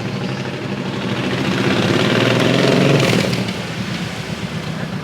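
A motor vehicle's engine running, with a steady low hum, swelling louder to a peak about three seconds in and then easing off, like a vehicle passing close by.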